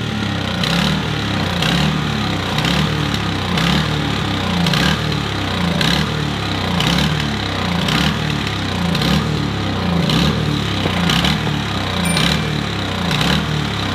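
Toro snow blower's small gasoline engine running steadily, with a regular pulse about once a second.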